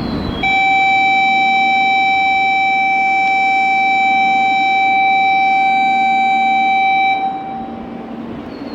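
A loud electronic warning tone at a station platform, held at one steady pitch for about seven seconds and then stopping, with the low rumble of a train underneath.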